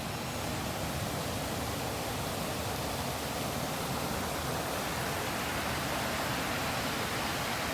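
Steady rushing of water from a small creek waterfall, an even noise with no breaks or changes.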